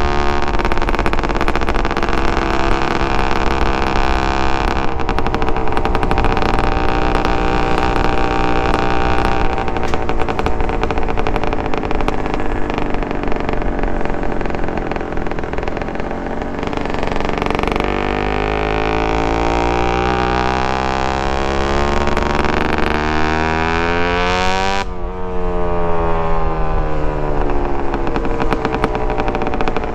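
Suzuki TSR 125 two-stroke single-cylinder engine with an aftermarket DEP exhaust, running continuously under way, its pitch shifting with the throttle. The sound changes sharply about 25 seconds in.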